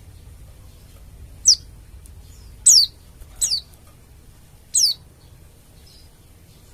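Pleci dakun bali, a white-eye, giving four short, high, sharp calls, each sliding down in pitch, spaced about a second apart.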